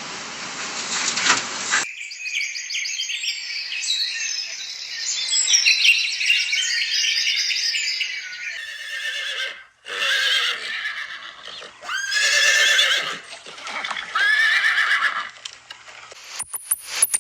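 Repeated high-pitched animal calls, several overlapping at first, then single drawn-out calls a couple of seconds apart.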